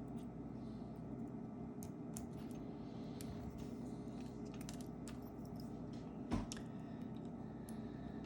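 Small scattered clicks and taps of a precision screwdriver and iPhone parts being handled, with one louder knock about six seconds in, over a steady low hum.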